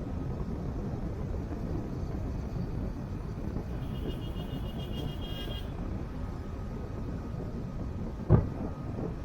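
Car driving on a road: steady low rumble of engine and tyre noise. A brief high tone sounds about four seconds in, and a single sharp thump comes near the end.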